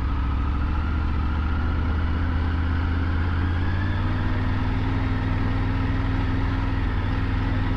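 Triumph Tiger 900 GT's three-cylinder engine running steadily at low speed under the rider, its pitch rising slightly about halfway through.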